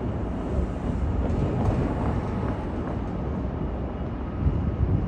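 Jet airliner flying overhead, a steady low engine rumble.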